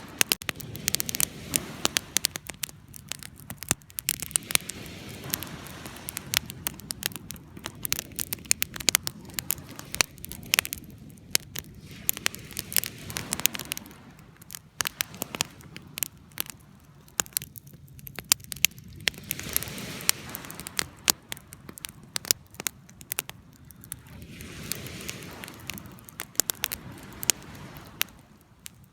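Wood campfire crackling: frequent sharp, irregular pops over a low rushing of the flames that swells and eases every few seconds.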